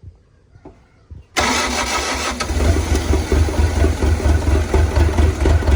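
Mitsubishi 4D32 four-cylinder diesel in a CAT 307SSR mini excavator starting up about a second and a half in and settling into a steady idle. It fires and runs after a fuel injection pump has been installed and timed to cure a no-start.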